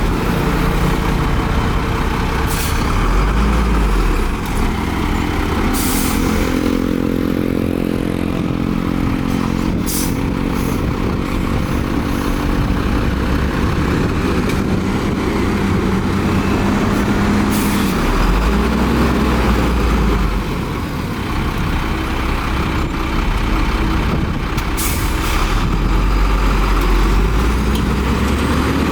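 Heavy diesel engines of earthmoving machinery, a bulldozer and dump trucks, running under load, the engine note rising and falling. Brief sharp noises cut in about five times.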